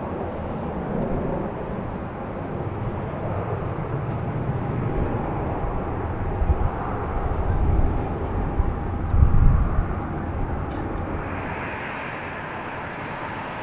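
Jet airliner engine noise, a steady rushing with a faint whine. Gusts of wind buffet the microphone with deep rumbles in the middle, and a brighter hiss comes in near the end.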